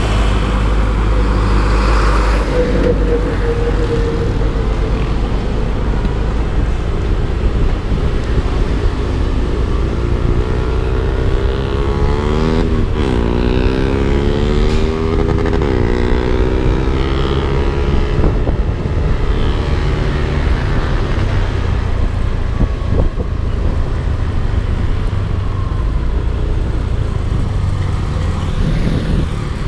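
Yamaha Aerox 155 scooter's single-cylinder engine running under way, with a steady low wind rumble on the microphone. About halfway through the engine pitch drops and climbs again twice as the throttle is eased off and reopened.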